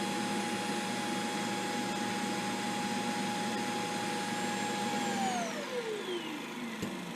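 Shark RV2502AE AI Ultra's XL self-empty base running its suction motor to empty the robot's dustbin: a steady whine that, about five seconds in, spins down with its pitch falling, ending in a click as the emptying cycle finishes.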